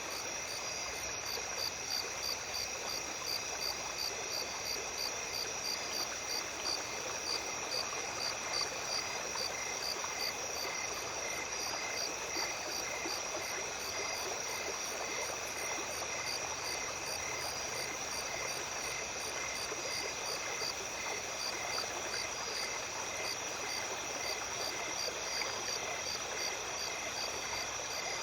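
Small stream babbling steadily, with insects, crickets among them, trilling and chirping in rapid, even pulses over the water.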